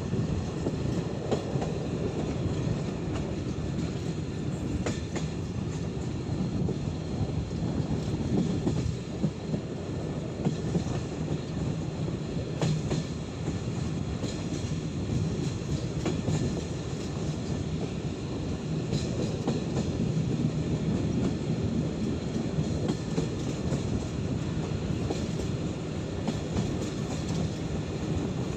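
Moving passenger train heard from inside a Czech-built coach: a steady rumble of wheels on rails, with scattered sharp clicks from the track.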